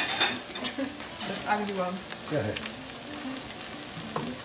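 Potato pancakes frying in hot oil in a skillet: a steady sizzle with scattered crackles and pops.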